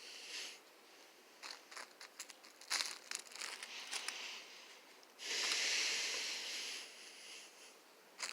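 Crinkling and rustling of a birthday balloon being handled, with scattered light taps; a louder, dense hissing rustle lasts nearly two seconds a little past the middle.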